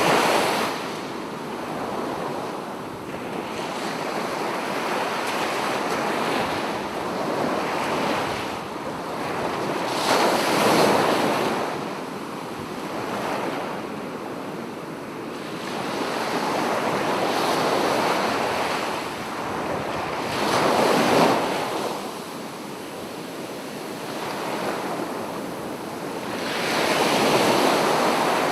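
Sea waves breaking on a beach: a steady wash of surf that swells and falls away every few seconds. The loudest breakers come about a third of the way in, about two-thirds in, and near the end.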